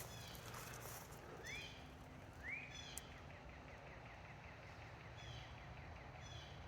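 Wild birds calling faintly: a short rising call note repeated three times, with a faint rapid trill between, and a single sharp click about three seconds in.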